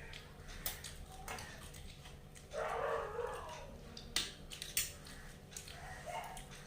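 Eating sounds: scattered sharp clicks and smacks of people eating luchi and curry by hand from plates. About two and a half seconds in there is one brief, louder, rough sound.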